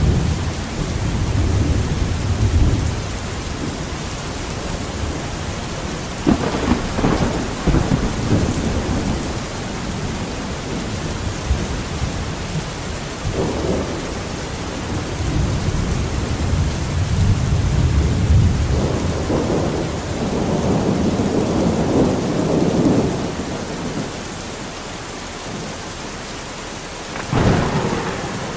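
Steady heavy rain with thunder rumbling several times. There are sharper claps about six seconds in and near the end.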